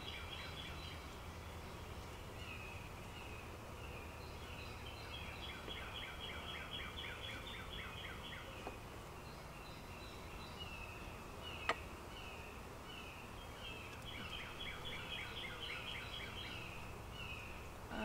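A songbird singing repeated phrases of quick chirping notes, over the low steady hum of an open honeybee hive, with one sharp click about two-thirds of the way through.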